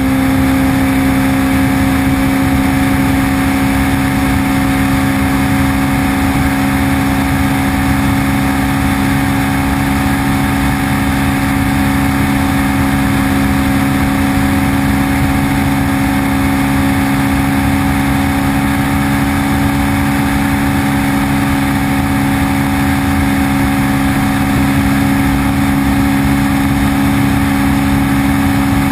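Honda CBR600RR inline-four engine running at a steady, almost unchanging pitch, as when cruising, over a constant rushing noise.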